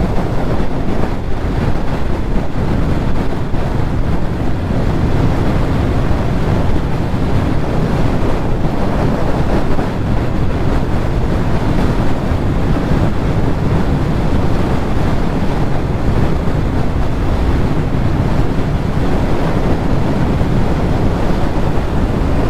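Heavy wind noise buffeting the microphone of a Yamaha R6 sportbike at road speed, with the bike's engine running steadily underneath.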